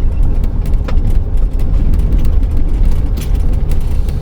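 Camper van driving on a rough desert dirt road, heard from inside the cab: a loud, steady low rumble of tyres and drivetrain, with scattered clicks and rattles from the bumpy road.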